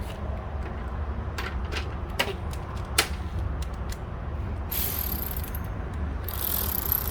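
Sharp plastic clicks and knocks, then two longer scraping hisses, as the radiator cooling fan assembly is worked onto its guides and clamp on the radiator. A steady low hum runs underneath.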